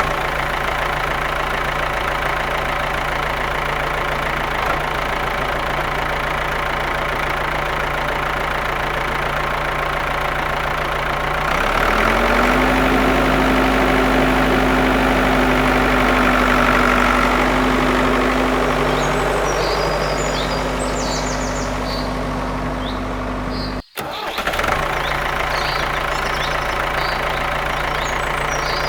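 Small motor of a homemade mini tractor running with a steady hum. About 12 s in, its pitch steps up and it gets louder. After a brief cut near 24 s it runs at the lower pitch again.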